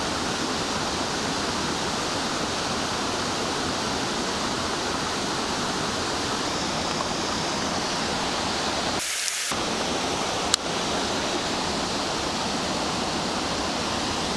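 Steady rushing of a waterfall. About 9 seconds in the deeper part of the rush drops out for half a second, and a single sharp click follows about a second later.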